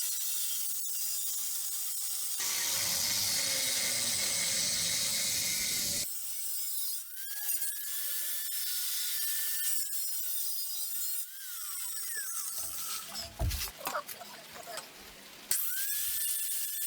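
A small high-speed power cutting tool cutting through the steel cross member tube: a high grinding hiss with a whine that spins up and winds down several times.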